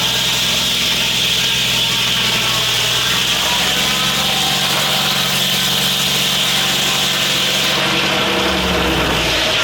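Foley Belsaw M-14 circle sawmill blade cutting lengthwise through a gum bully log, a steady hiss of sawing over the hum of the engine driving the mill. The engine note shifts near the end.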